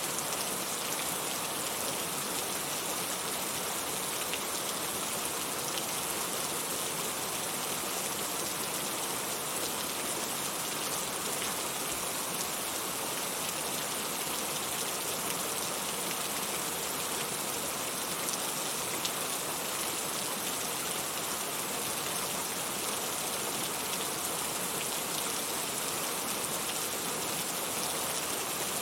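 Steady heavy rain falling, a constant hiss with fine drop ticks and no thunder.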